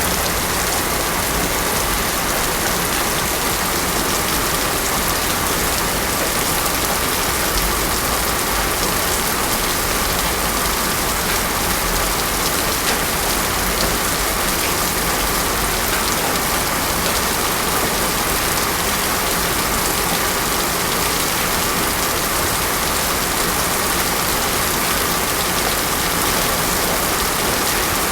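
Heavy rain falling steadily on a road: a dense, even hiss of rain with no thunder and no changes.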